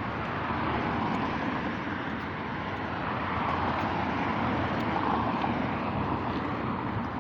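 Steady rushing noise of riding a bicycle outdoors: wind on the microphone and road or traffic rumble.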